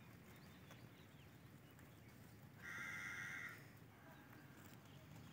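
Near-silent outdoor background with a single bird call, about a second long, a little past halfway through.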